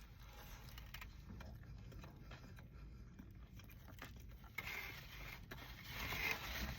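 Faint eating and handling noises: chewing, small clicks, then a louder rustling scrape from about two-thirds of the way in.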